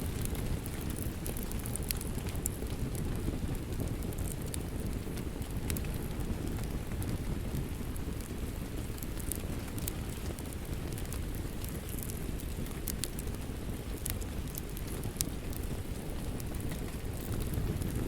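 Wood fire crackling, with scattered sharp pops, over a steady wash of rain.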